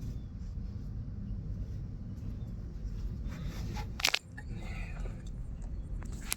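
Two sharp knocks, the louder about four seconds in and a second near the end, over a steady low rumble.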